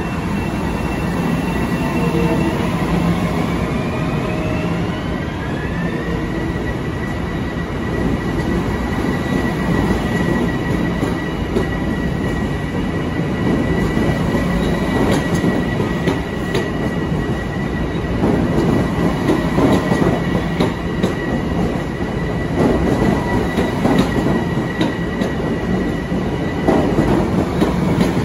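Long Island Rail Road electric train pulling out of the station. Its traction motors give a rising whine over the first few seconds as it gathers speed, then hold one steady high tone. Under the rumble of the passing cars, the wheels click over rail joints more and more often as the train speeds up.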